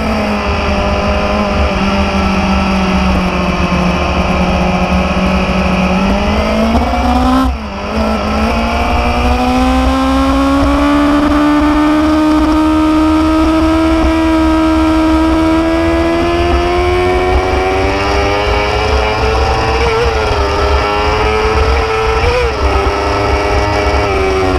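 Motorcycle engine running under way. Its pitch eases down at first, then climbs. About seven and a half seconds in it dips briefly, then the revs rise slowly and steadily.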